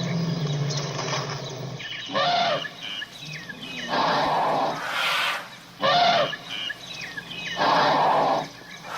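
Animal calls: a low, steady pitched sound ends about two seconds in, followed by a series of short loud calls repeating roughly every two seconds.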